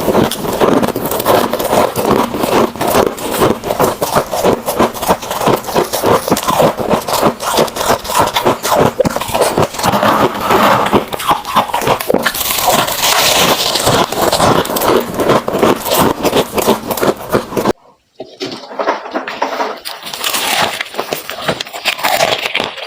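Freezer frost being crunched and chewed: a dense run of crisp, crackling crunches that stops abruptly for a moment near the end, then resumes more sparsely.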